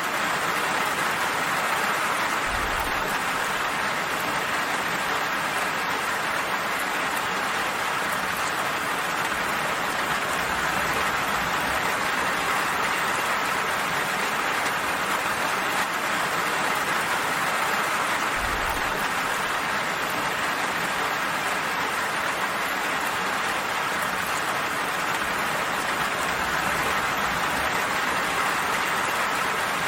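Steady rain falling, an even hiss of drops with no letup, and faint low rumbles twice.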